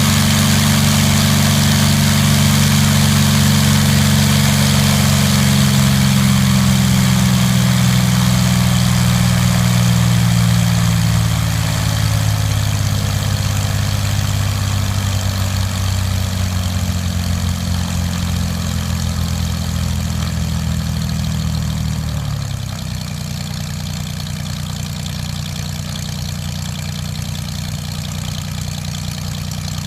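Homebuilt airplane's engine running, its pitch easing down about ten seconds in and dropping sharply about twenty-two seconds in to a lower, steady idle: the engine is being throttled back.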